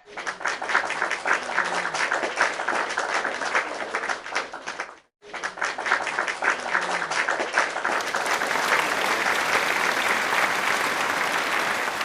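Applause, many hands clapping. It cuts out briefly about five seconds in, then resumes as a denser, more even wash of clapping.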